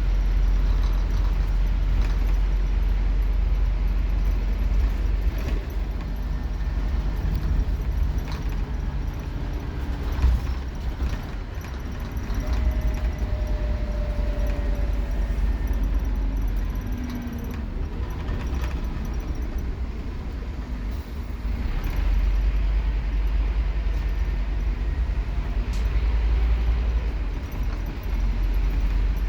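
Scania K230UB Omnilink bus engine running under load, heard from on board: a deep, steady rumble that eases and picks up again a few times, with a few short rattles.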